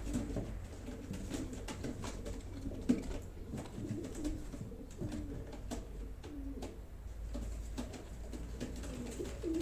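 Domestic pigeons cooing in a loft, many overlapping low calls, with a sharp knock about three seconds in and light clicks and shuffling.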